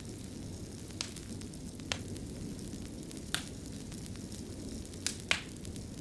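Wood fire crackling in a fireplace: a steady low rumble of burning with sharp pops about once a second, the loudest a little after five seconds in.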